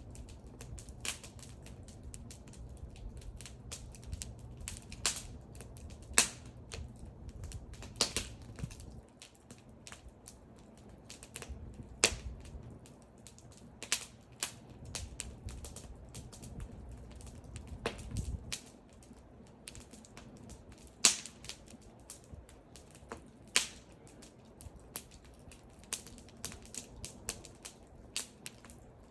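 Wood fire crackling: irregular snaps and sharp pops of burning wood, a few much louder than the rest, over a faint low rumble of the flames that fades in and out.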